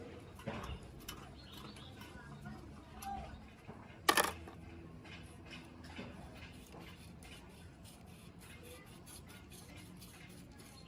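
Small metal parts and tools being handled, clinking and scraping, with one loud metal clank about four seconds in.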